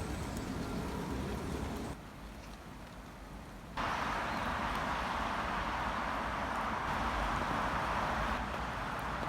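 Rain falling in a forest, a steady hiss of drops. It drops away abruptly about two seconds in, then comes back louder and denser about four seconds in.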